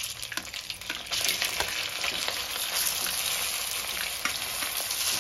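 Pieces of steamed suji dhokla sliding off a steel plate into hot oil in a steel kadhai, sizzling in the tadka of cumin, green chillies and mustard seeds. The sizzle grows louder about a second in. Short clicks of the steel spoon scraping and knocking against the plate run through it.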